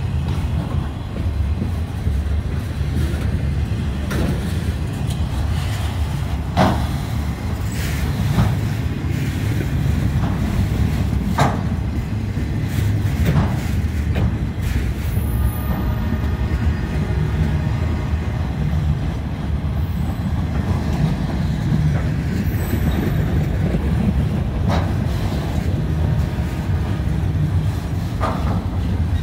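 Loaded railroad flatcars of a freight work train rolling past at close range: a steady low rumble of steel wheels on rail, broken by several sharp knocks spread through it.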